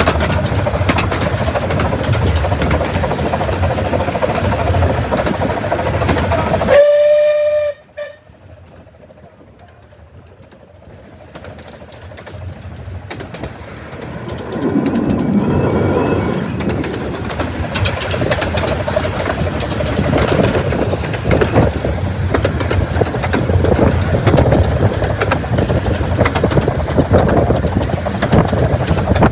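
Miniature railway train running with steady rail and wheel noise. About seven seconds in, its whistle sounds once, briefly. The noise then drops away suddenly and builds back up over the next several seconds to a steady running rumble.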